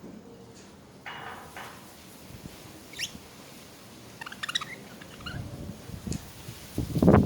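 Budgerigars chirping and chattering in short high calls, with a quick rising chirp and a fast burst of warbled notes midway. A loud low bump just before the end.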